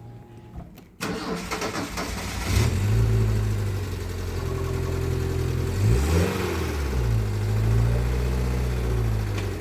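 An engine comes in suddenly about a second in and runs steadily, its pitch dipping and rising again around the middle.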